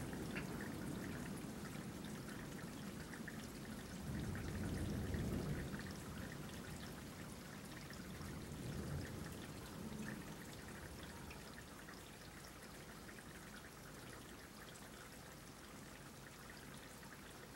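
Thunderstorm rain falling steadily and faintly, with water trickling and dripping. A low rumble of thunder dies away near the start and swells again softly a few seconds in.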